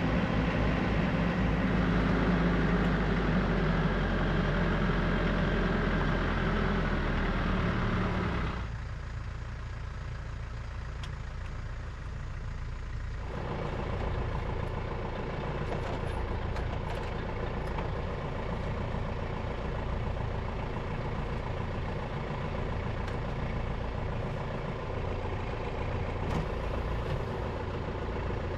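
Tractor engine running steadily. The sound changes abruptly about eight and a half seconds in, becoming quieter and duller, and shifts again around thirteen seconds in.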